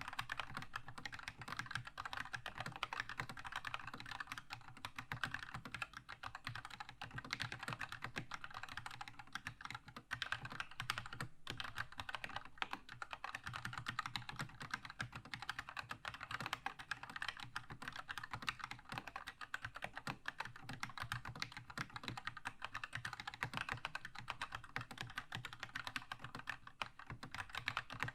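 Fast, continuous typing on a Keychron K2 mechanical keyboard with linear red switches: rapid key clacks with a brief pause about ten seconds in.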